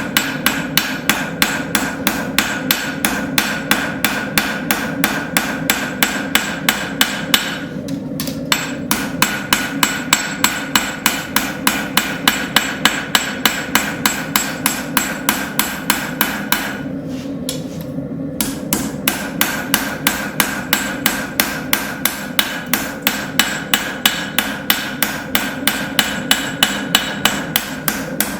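Hand hammer striking a hot steel railroad spike on an anvil in a steady rhythm of about three blows a second, drawing out and shaping the blade, with two brief pauses. A steady hum runs underneath.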